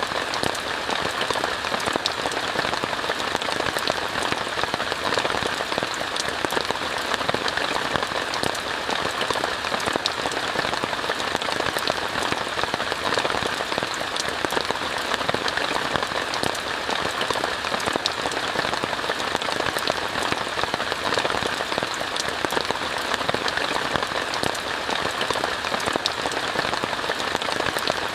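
Steady rain falling on a tent: an even hiss made of many small drop hits, unchanging throughout.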